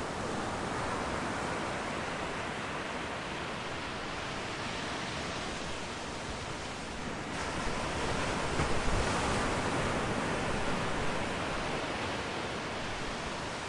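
Continuous rushing noise of a natural outdoor ambience, wind or flowing water, with no distinct calls. It swells and grows brighter about halfway through, with a low rumble at its loudest, then settles back.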